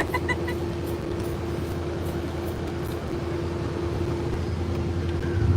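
A vehicle engine idling, a steady low rumble with a constant hum above it.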